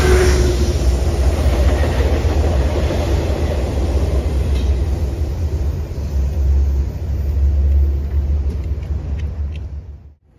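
Metro-North inspection train of two GE P32AC-DM dual-mode locomotives and coaches pulling away: a deep rumble that slowly fades as the train recedes, with a few faint clicks later on. The sound fades out just before the end.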